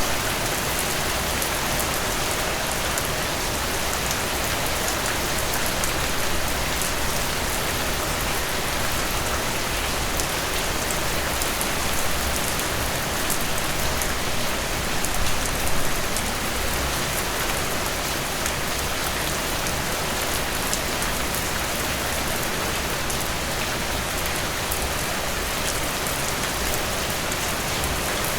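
Steady rain falling on a surface, a dense even hiss with many fine drop ticks, swelling briefly a couple of times.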